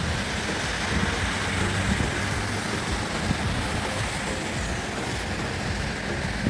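Steady hiss of heavy rain with a low rumble of road traffic underneath.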